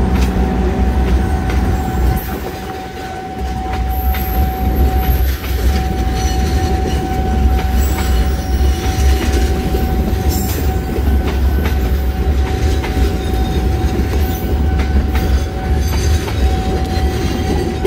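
Passenger train running past close by: a loud low rumble of the carriages with wheels clacking over rail joints, and a steady high tone held throughout. The rumble dips briefly about two seconds in, then returns.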